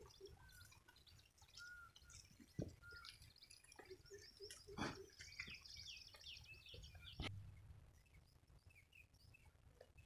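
Faint outdoor quiet with scattered short bird chirps and whistles, a few sharp knocks, and a low rumble underneath.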